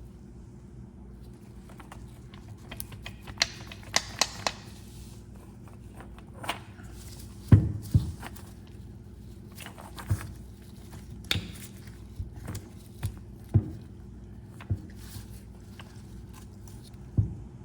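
Irregular clicks and knocks of the old knife cleaner's parts being handled, about a dozen in all, the loudest a pair of knocks about halfway through, over a steady low hum.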